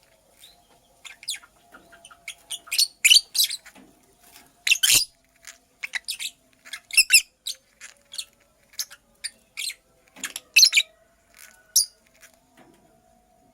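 Lovebird giving many short, sharp chirps at an irregular pace, with a few louder calls scattered through.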